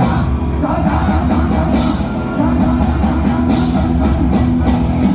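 Live luk thung / mor lam band music with a steady drum beat and bass under a melody line.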